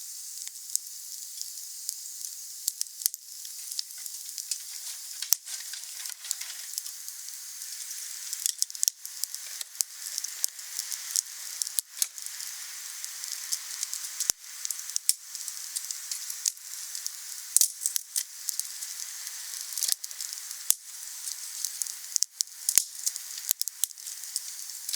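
Wood fire burning with a steady hiss and frequent, irregular sharp crackles and pops.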